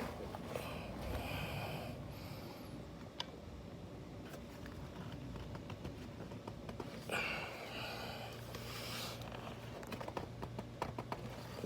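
Hands straining to twist a stuck oil filter off by hand: faint rubbing and small clicks, with two longer noisy breaths of effort, one about a second in and one near the middle to end.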